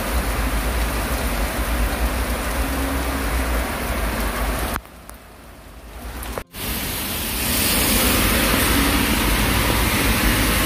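Heavy rain pouring down steadily. The sound drops to a quieter patch about five seconds in and returns louder a couple of seconds later.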